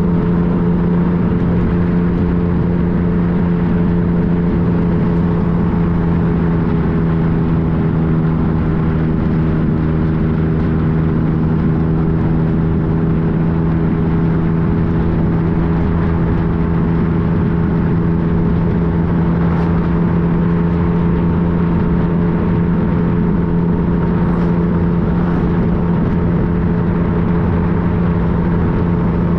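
2015 Yamaha FJ-09's 847 cc inline three-cylinder engine running at a steady speed under way, its note holding constant pitch.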